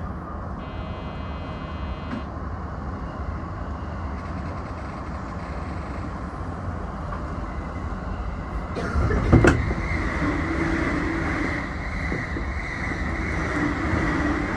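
E233-6000 series electric train setting off again, heard from the cab, with a steady low rumble. A steady high whine comes in from about eight seconds, and a sharp thump about nine seconds in is the loudest moment.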